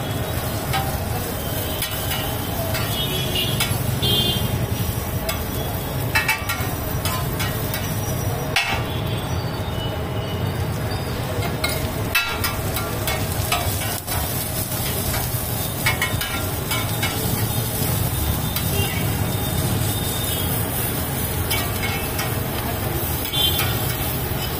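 Vegetables and egg sizzling on a large flat iron tawa, with metal spatulas scraping and clicking against the griddle now and then as they are stirred and tossed.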